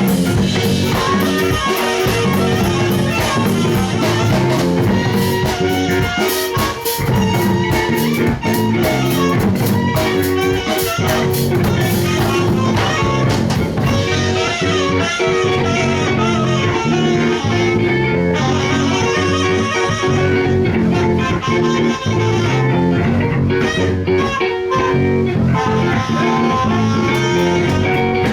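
Live band playing an instrumental passage led by guitar, with drum kit.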